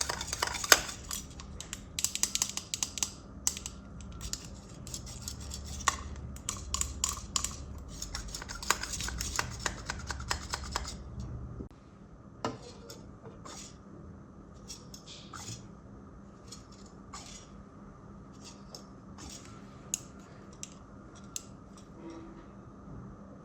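Dense, rapid clicking and scraping of small objects being handled for about eleven seconds, then fainter, scattered clicks and taps.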